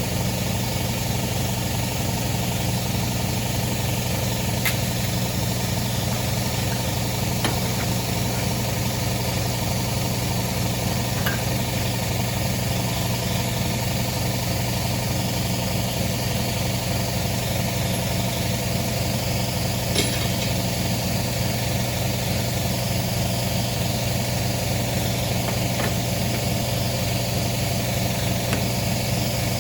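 Lawnmower engine running steadily at one constant speed, with a few faint clicks over it.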